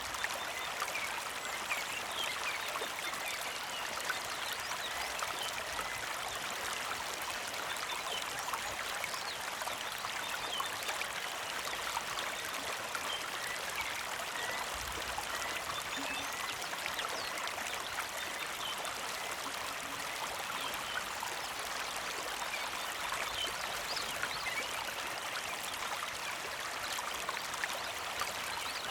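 Small creek flowing steadily, a gentle trickle and babble of water with fine, rapid splashing detail.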